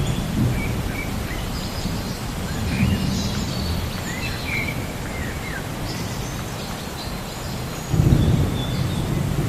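Relaxing nature ambience: a steady hiss with low thunder rumbles, the strongest about eight seconds in, and birds chirping now and then.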